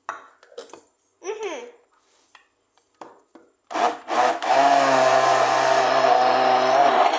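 Electric kitchen blender switched on in two short bursts, then running steadily for about three seconds before it stops.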